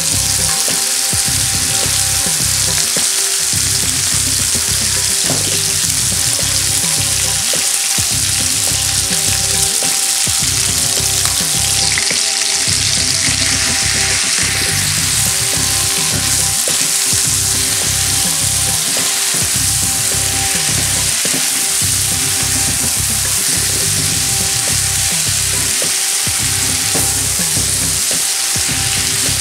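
Chicken pieces sizzling steadily in hot oil in a skillet while a masala paste is stirred through them with a silicone spatula.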